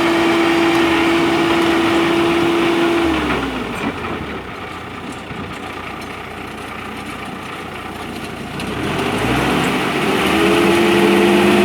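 Tractor engine working a rotary tiller, with a steady high drone. About three seconds in it throttles down, falling in pitch and running quieter, then revs back up to the same steady drone near the end.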